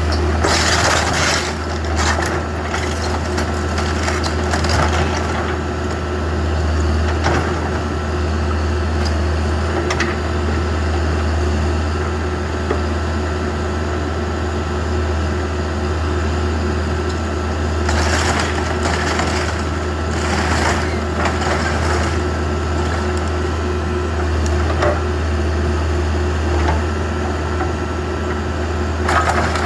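Backhoe's diesel engine running steadily under load, with repeated bouts of crunching and cracking wood as the garage's timber structure is broken and crushed; the crashes come in clusters near the start, about two-thirds of the way through, and again near the end.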